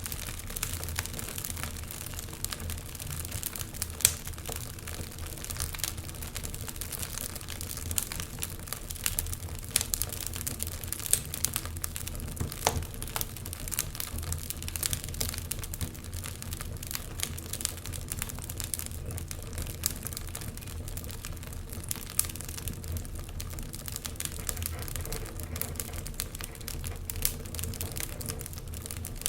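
Wood fire crackling and popping in irregular clicks over a steady low rumble, with one sharper pop about four seconds in.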